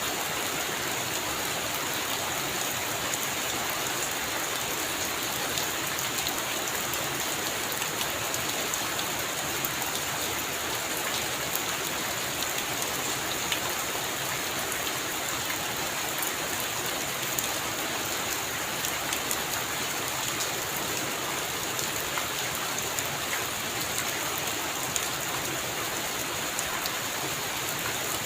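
Heavy rain falling steadily on a roof, an even hiss peppered with countless small sharp drop impacts.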